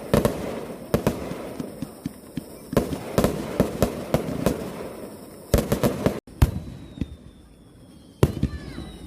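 Fireworks bursting in a rapid string of loud bangs over a dense crackle. About six seconds in, the sound cuts out for an instant, then a quieter stretch carries a faint, slowly falling thin tone before more bangs near the end.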